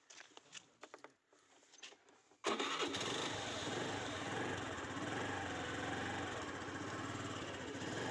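A motorbike engine starts on its electric starter, powered by a borrowed battery wired in because its own battery is flat. It catches suddenly about two and a half seconds in, after a few faint clicks, and settles into a steady idle.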